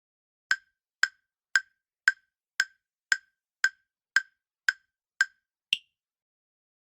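Quiz countdown-timer sound effect: eleven sharp wood-block-like ticks, about two a second, the last one higher-pitched, marking the time to answer running out.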